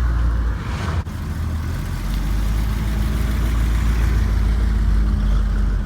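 Car engine running at idle with a deep, steady low rumble, briefly dropping out about a second in.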